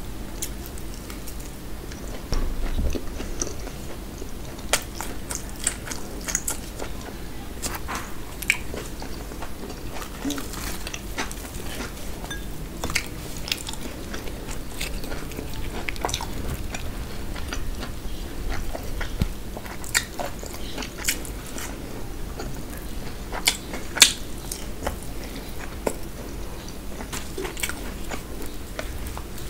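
Close-miked eating sounds: biting and chewing deep-fried puri with mutton curry. Many short crisp clicks and crackles are scattered throughout, with one sharper crack about three-quarters of the way through.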